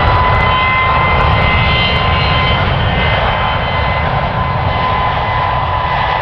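Airbus A320neo-family jet engines running loud: a steady roar with a deep rumble and a held high whine on top, easing slightly near the end.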